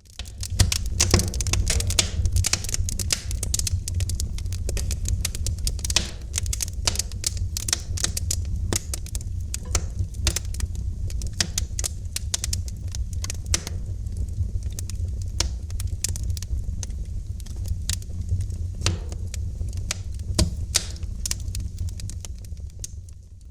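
Wood fire crackling in a fireplace: a dense, irregular stream of sharp pops and snaps over a steady low rumble.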